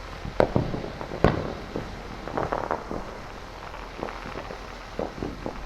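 Neighborhood fireworks and firecrackers going off at a distance: two sharp bangs in the first second and a half, then a quick cluster of smaller pops a couple of seconds in, with scattered single pops later.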